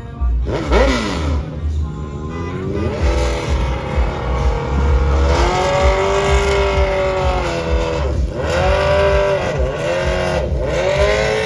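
Car engine revving hard several times, its pitch sweeping up and dropping back, with one long hold at high revs near the middle, over music with a heavy bass beat.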